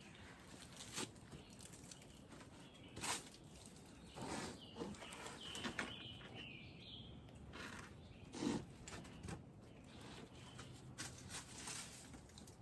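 Irregular footsteps and scuffs of boots scrambling over rock and forest litter, with a louder scrape or knock about eight and a half seconds in.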